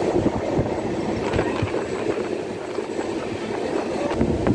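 Express passenger train running on the rails, heard from the coach doorway: a steady rumble of wheels and coaches with irregular clicks and rattles.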